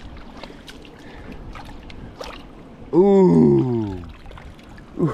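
Creek water trickling and splashing, with a few faint knocks of stones. About three seconds in, a man's long, falling 'ooh' breaks in over it.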